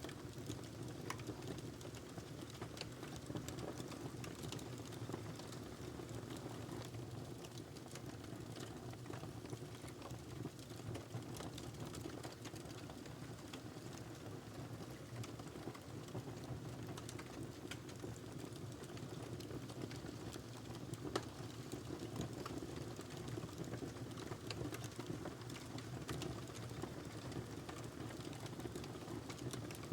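Wood fire crackling in a fireplace: a steady low rumble of flames with frequent small pops and snaps, and one louder pop about two-thirds of the way through.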